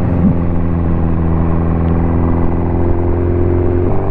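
Ducati motorcycle engine running steadily while under way, its note shifting slightly just before the end.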